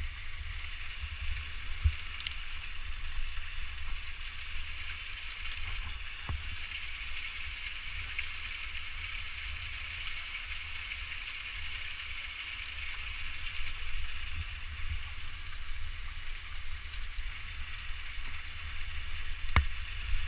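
Steady rushing hiss of a waterfall, with a low rumble of wind or handling on the microphone and a few sharp knocks, one about two seconds in, one about six seconds in and one near the end.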